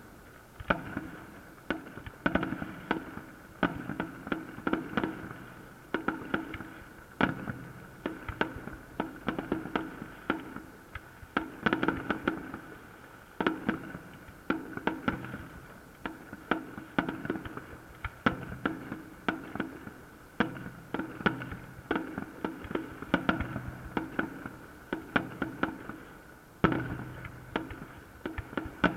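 Festive fireworks salute: a dense, continuous string of bangs from bursting shells, several a second, with the loudest clusters around twelve, eighteen and twenty-seven seconds in.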